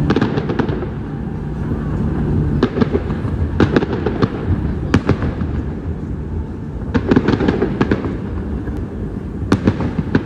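Fireworks going off: clusters of sharp bangs and crackling every second or two over a low rumble.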